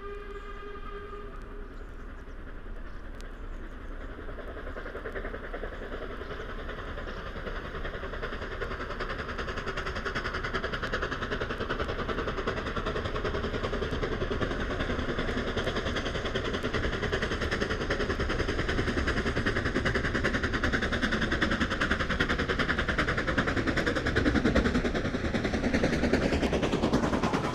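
A train running past on the line, its rumble and rail noise growing steadily louder over about twenty-five seconds and loudest near the end. A brief whistle or horn tone fades out in the first second or so.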